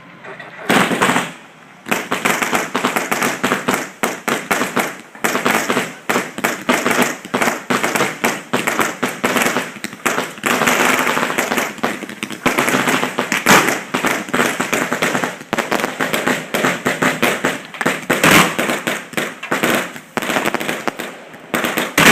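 Fireworks going off at close range: one bang under a second in, then a dense, rapid barrage of sharp bangs that runs on for about twenty seconds.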